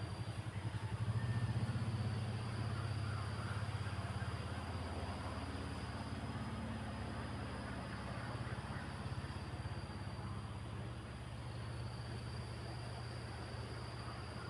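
Wind blowing, a low gusting noise that swells about a second in, then settles to a steady rush.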